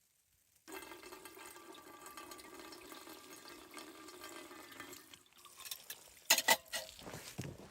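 Water pouring steadily, starting suddenly and stopping after about four seconds, followed by a few sharp knocks.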